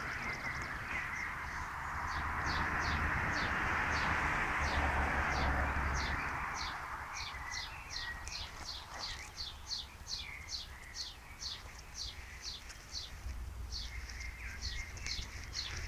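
A small bird chirping over and over in short, high, falling notes, about two to three a second. For the first half or so, a steady rushing noise sits under the chirps.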